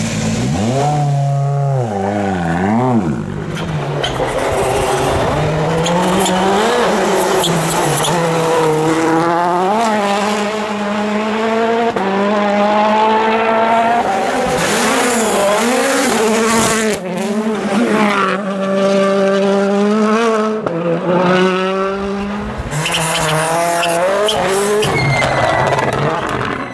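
Rally car engine revving hard, its pitch climbing and then dropping again and again as the car shifts gear and comes on and off the throttle.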